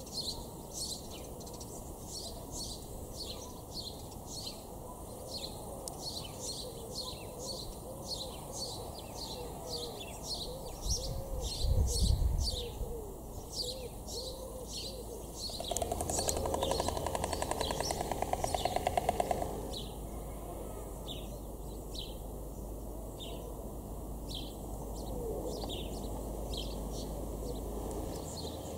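Small birds chirping in quick, repeated high notes, with a low wavering cooing call underneath in the first half. A short low rumble comes near the middle, followed by a rattling that lasts about four seconds.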